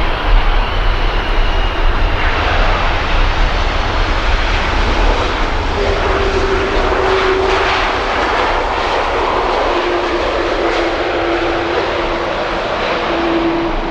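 Jet airliner's engines roaring as it passes, a loud steady roar with a deep rumble. A faint high whine slides down in pitch in the first couple of seconds, and a steady hum joins about six seconds in.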